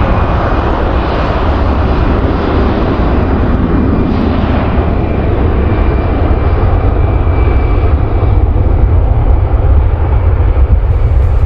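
Jet airliner's engines running loud: a steady rush with a deep rumble and a faint high whine, the upper rush thinning out over the last few seconds.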